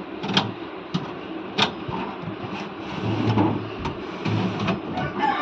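Several sharp clicks and knocks of a new refrigerator's drawers, boxes and compartments being handled, over a low rustle.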